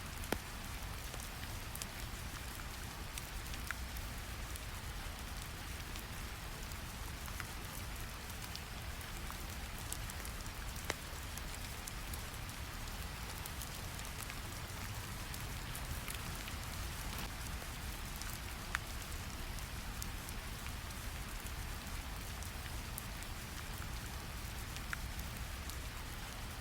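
Steady rain with a low, even rumble of brown noise beneath it, and scattered sharp crackles from a wood fire.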